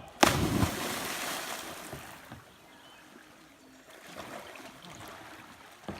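A loud splash as a person drops into the creek water, its hiss dying away over about two seconds, then faint lapping water.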